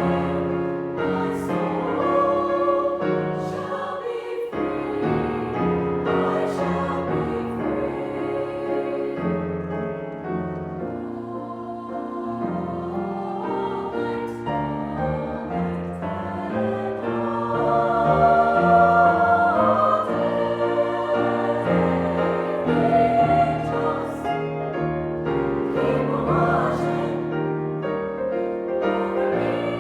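A choir singing in sustained harmony, the chords shifting from note to note, with a piano.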